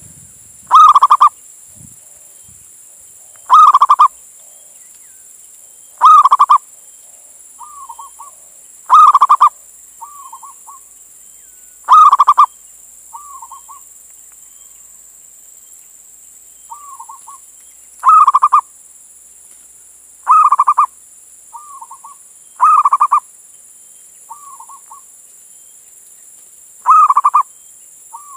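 Male zebra dove (perkutut) calling: loud, short cooing phrases about every two and a half to three seconds, nine in all. Softer, shorter coos fall between them.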